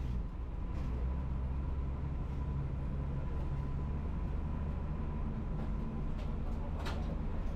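City bus engine running steadily, heard from inside the non-air-conditioned bus, with a single sharp knock near the end.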